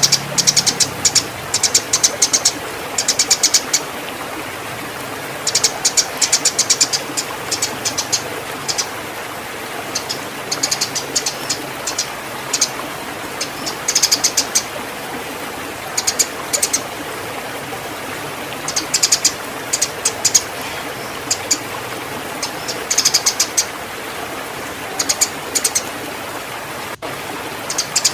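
Eurasian tree sparrows chirping excitedly in rapid, high-pitched bursts of a second or two, over and over, in the agitated calling of birds in breeding condition squaring up to fight. A steady hiss lies underneath.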